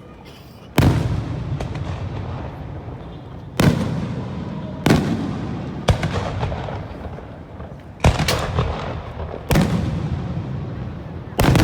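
Aerial fireworks shells bursting: about seven loud booms spaced one to three seconds apart, each trailing off in a rolling rumble.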